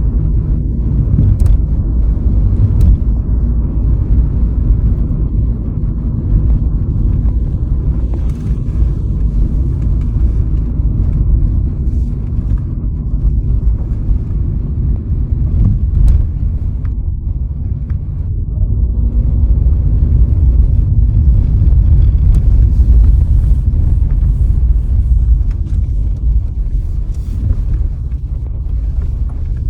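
A car being driven: the steady low rumble of road and engine noise, swelling a little for a few seconds past the middle.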